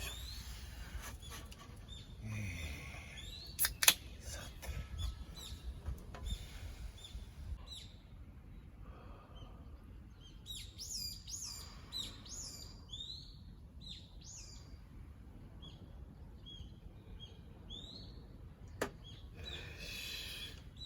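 Small birds chirping and calling repeatedly, in quick sweeping notes, busiest in the middle, over a faint low outdoor rumble. A sharp knock about four seconds in, the loudest sound, and another click near the end.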